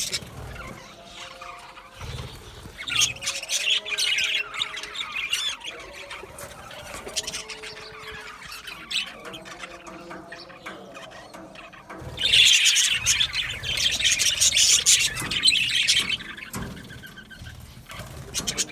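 A flock of budgerigars chattering and warbling, with two louder stretches of dense chirping, one about three seconds in and a longer one from about twelve to sixteen seconds.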